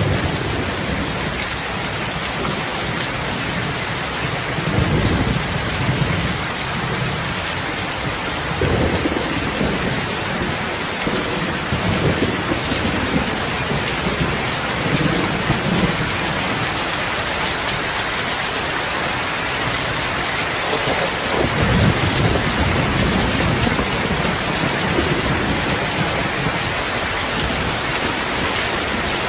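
Heavy rain falling steadily, with low rumbles of thunder swelling and fading every few seconds underneath.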